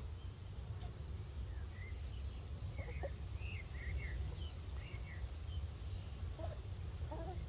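Short high bird chirps, several in a row in the middle, over a steady low rumble; a few lower clucks from the hens come near the end.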